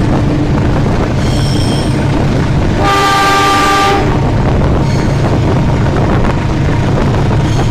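GE U18C diesel-electric locomotive accelerating, its V8 diesel engine running under load with a steady low rumble. About three seconds in, the locomotive horn sounds for about a second, and a few short high-pitched tones come and go.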